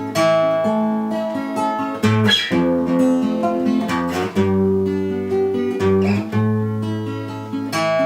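Acoustic guitar strumming chords in an instrumental interlude with no singing. The chord changes about every two seconds.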